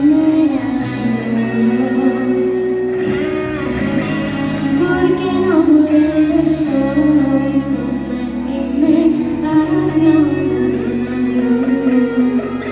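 Live pop music: a woman singing over guitar and band, sounding like a large hall.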